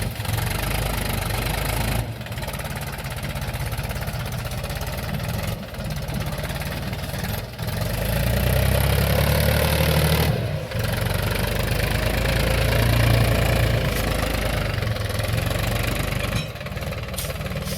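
Mahindra tractor's diesel engine running with a low, knocking rumble. It grows louder for a couple of seconds about eight seconds in and again around twelve seconds, as if throttled up under load.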